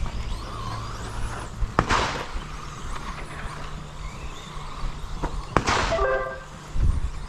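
1/10 scale electric RC stadium trucks racing around the track. Twice, about two seconds in and again about five and a half seconds in, a sharp knock is followed by a loud rushing burst of noise, with a brief pitched sound just after the second.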